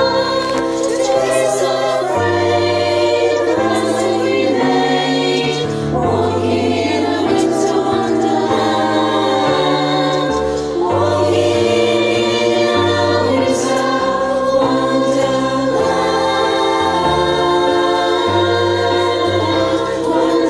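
Women's choir singing in harmony, holding chords that change every second or two over steady low bass notes.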